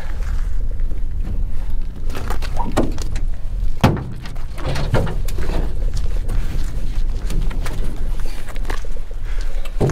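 Scattered knocks and clunks of gear being handled, the sharpest about four seconds in, over a steady low rumble.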